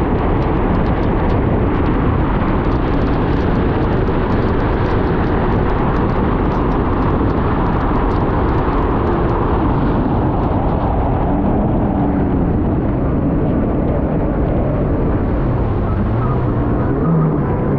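Supercharged Kawasaki Ultra 310LX jet ski running at speed over slightly rough water: a loud, steady rush of engine and water noise. From about two-thirds of the way in, a droning engine tone comes through more clearly.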